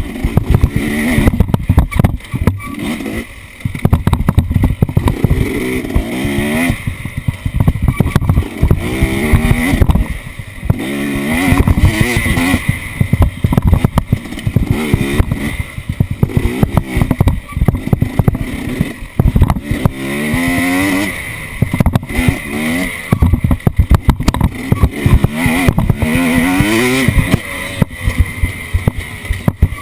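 Off-road vehicle engine revving up and easing off over and over, rising in pitch each time, with frequent knocks and rattles throughout.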